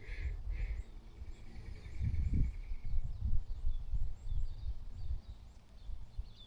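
Outdoor creekside ambience: uneven low rumbling of wind on the microphone, with two short high bird calls at the start, a thin steady high note for a couple of seconds after, and faint scattered chirps of birds or insects.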